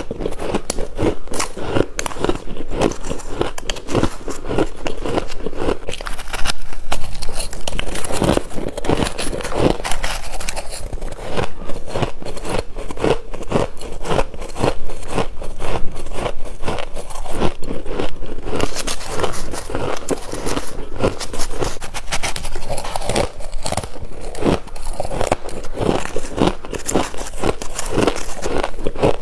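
Freezer frost being bitten and chewed close to the microphone: a continuous dense crackling crunch of many small clicks.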